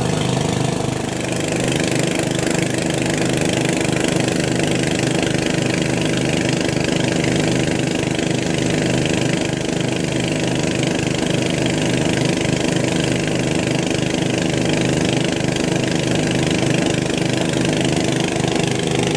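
Small engine driving a water pump, running steadily with an even low chug while it pumps water out of a pit.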